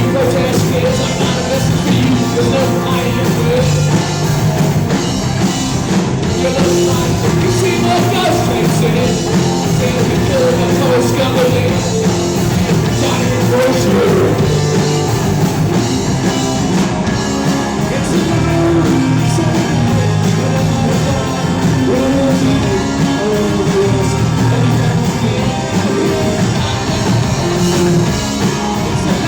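A rock band playing live, with a singer over guitars, bass and drums, at a steady full level throughout.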